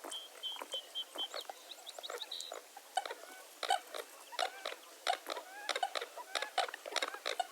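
Dawn chorus of many birds calling at once: a dense stream of short chirps and calls, with a quick run of repeated high notes in the first second or so.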